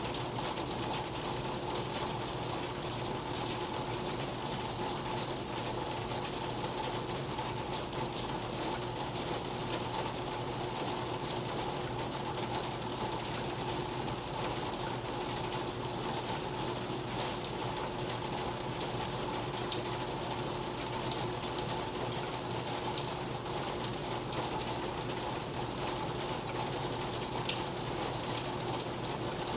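Steady rain falling, a dense even patter of drops with scattered sharper drips, over a faint steady hum.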